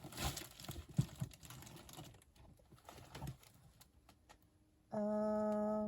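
Light clicks, taps and rustling as lace trims and their cards are handled and put away on a craft desk. Near the end comes a loud, steady humming tone at one pitch, lasting about a second.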